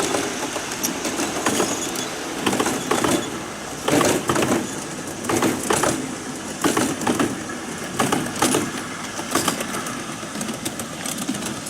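Large-scale model train's wheels clicking over rail joints, in close pairs of clacks about every second and a half.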